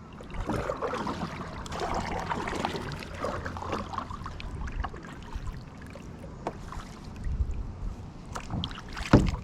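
A kayak on the water: water splashing and trickling around the hull, with scattered small knocks and one sharp knock near the end.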